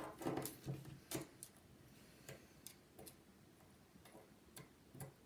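Light, irregular clicks and ticks of a precision Phillips screwdriver and small metal tools working the tiny screws inside an iPhone 5.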